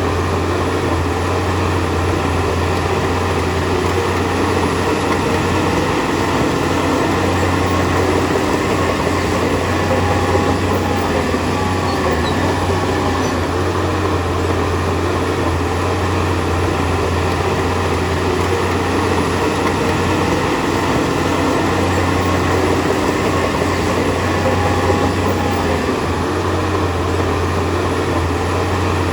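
Heavy diesel engine of an earthmoving machine running steadily under load, with a constant low drone and no breaks.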